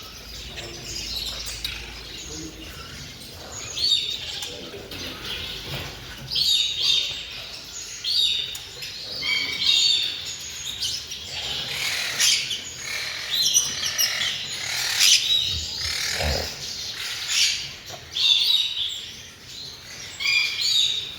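Many small caged birds chirping, calling and trilling together, a dense overlapping chorus of short high notes. A brief low thump sounds about 16 seconds in.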